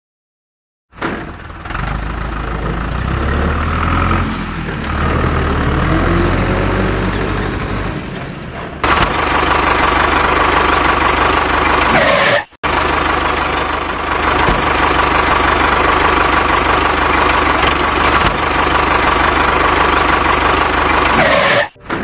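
A heavy vehicle's engine runs loudly, starting about a second in. It turns harsher, with a steady whine, about nine seconds in, and breaks off briefly twice.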